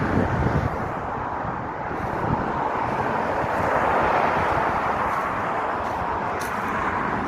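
Steady outdoor vehicle and traffic noise, a rushing hum that swells to a peak about four seconds in and then eases slightly.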